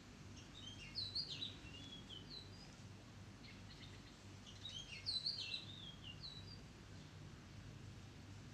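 Oriental magpie-robin singing: two phrases of quick, varied whistled notes about three and a half seconds apart, over a steady low background hum.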